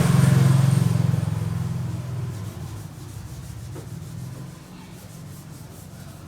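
A motor vehicle's engine hum that is loud at first and fades away over the next few seconds, as it passes and moves off.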